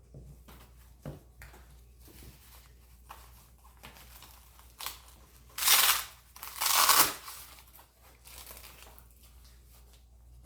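Blood pressure cuff being handled and wrapped around an upper arm: soft fabric rustling, then two loud rasps of its Velcro fastening, about six and seven seconds in.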